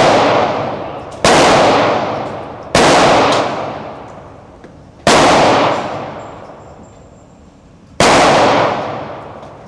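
Gunshots fired singly at an uneven slow pace, four in all, each followed by a long echoing tail in the range.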